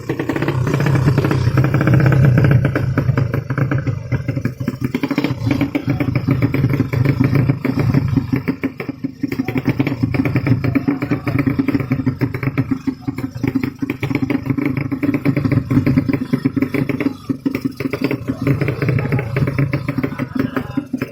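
Motorcycle engine running steadily with a fast pulsing beat, loudest about two seconds in.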